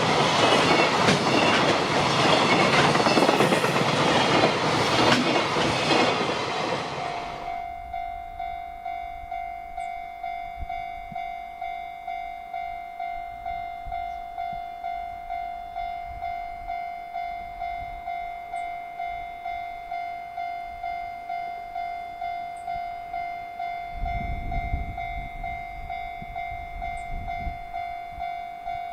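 A JR Freight train passing close by, its wagons clattering over the rail joints, until the sound cuts off abruptly about seven seconds in. After that a level-crossing warning bell rings steadily, one clear tone about once a second. A low rumble joins it about 24 seconds in.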